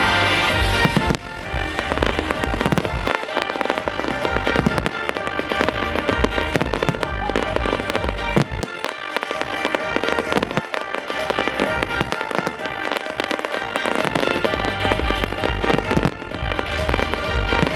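Fireworks display: a rapid, continuous run of shell bursts, bangs and crackles starting about a second in, over the show's music.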